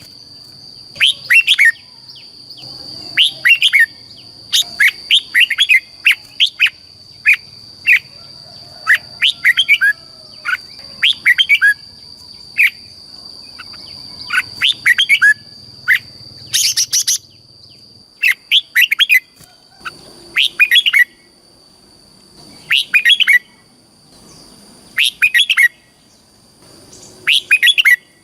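Red-whiskered bulbul singing: short, bright whistled phrases repeated over and over, every second or two, with a steady high whine underneath.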